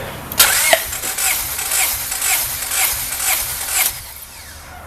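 Starter cranking a Honda B16 VTEC engine with a JUN 1.8L stroker kit, turning it over without it firing for about three and a half seconds, with a rhythmic beat about twice a second. This is the cranking for a compression test on cylinder 4, which reads about 210 psi.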